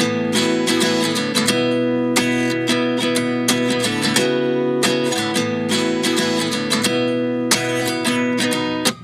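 Background music: acoustic guitar strumming chords in a steady rhythm, dropping away briefly near the end.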